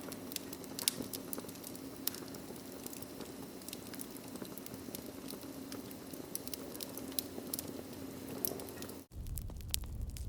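Wood fire crackling, with irregular sharp pops over a steady low hiss. About nine seconds in the sound cuts out for an instant and comes back with a deeper steady rumble and sparser crackles.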